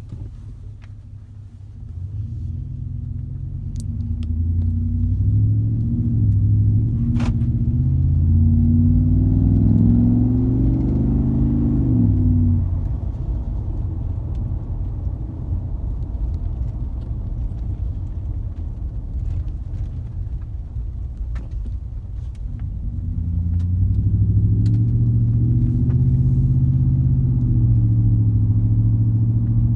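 2014 Ford F-150's 5.0 V8 breathing through a Roush cat-back exhaust and cold air intake, pulling under load. The engine note climbs for several seconds, falls sharply about twelve seconds in, runs lower for a while, then climbs again from about twenty-three seconds in and holds.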